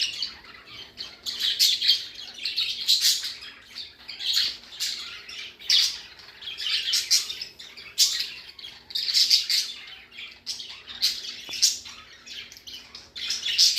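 A flock of budgerigars chattering, chirping and squawking continuously.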